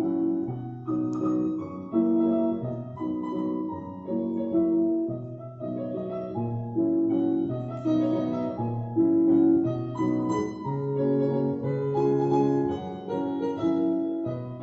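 Piano music at a steady, moderate pace, with a repeating pattern of held bass notes under a melody.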